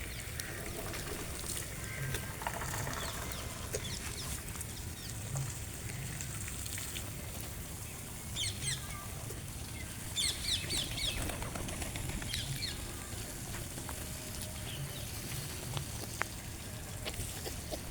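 A flock of birds flapping their wings as they fly about at a feeding spot, with several clusters of short, high chirps about halfway through.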